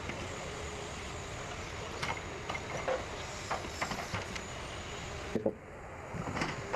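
Rottne F20D forwarder at work: a steady engine noise with scattered knocks and clunks.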